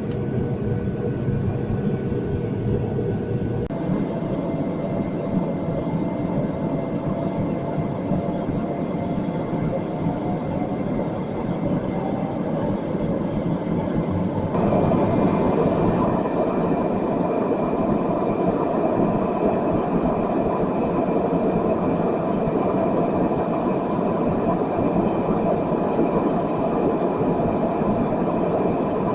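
Steady noise of jet engines and rushing air heard inside an airliner cabin. A faint tone slowly rises in pitch in the first half, and the noise changes abruptly twice, getting louder about halfway through.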